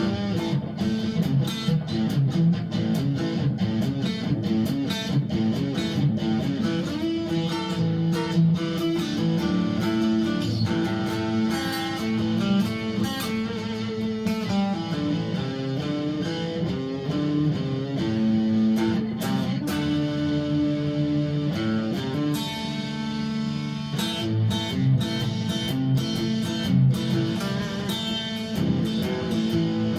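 Three-string electric guitar with an aluminium composite top, played through an amplifier with overdrive: a continuous run of picked notes and riffs, ringing with sustain.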